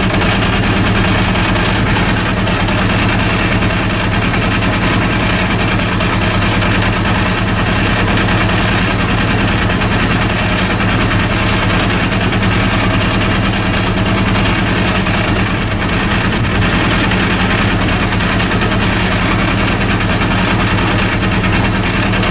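Honda CB400 inline-four engine idling steadily with its third cylinder not firing, so it runs on three cylinders.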